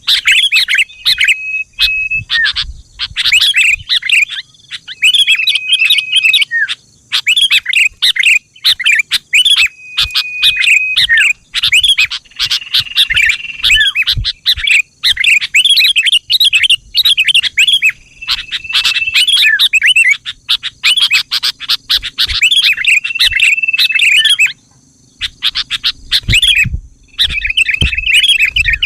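Sooty-headed bulbul singing over and over: quick runs of chattering, bubbly notes, each ending in a short, level whistled note. There is a brief pause near the end.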